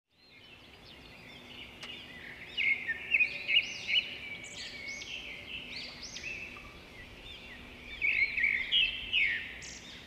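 Birds chirping and twittering in a forest ambience, fading in from silence, with louder flurries of chirps about three seconds in and again near the end.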